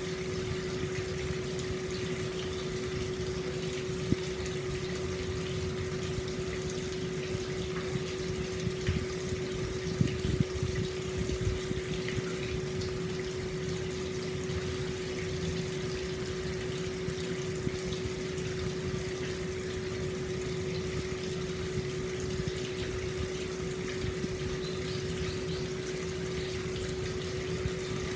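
Hot-spring water flowing steadily into an open-air stone bath, a low, even gushing with a steady hum underneath. There are a few brief louder spots about ten seconds in.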